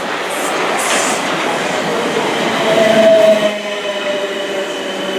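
A South West Trains electric multiple unit running past close by, a rushing rumble of wheels on rail that builds to its loudest about three seconds in. After that a steady electric whine takes over and slowly falls in pitch.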